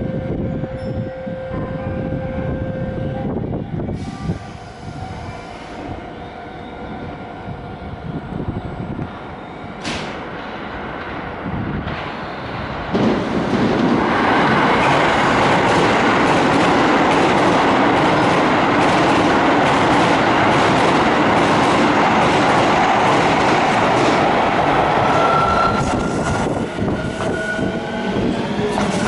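Keio 7000 series two-car electric train running on the rails, its rumble rising sharply about a third of the way in and staying loud before easing off. Near the end comes a high, slightly rising whine.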